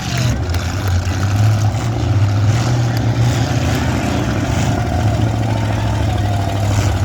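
Engines of several demolition derby cars running at once: a loud, steady low drone, with revs rising and falling now and then.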